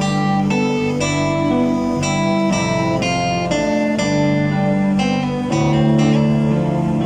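Instrumental music with a plucked acoustic guitar playing a slow melody, about two notes a second, each ringing on.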